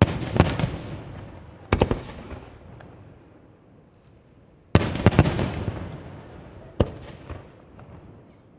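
Aerial firework shells bursting in clusters of sharp bangs, each followed by a rolling echo and crackle that dies away. One volley comes at the start and another just under two seconds in, a heavier cluster follows about five seconds in, and a smaller bang comes near seven seconds.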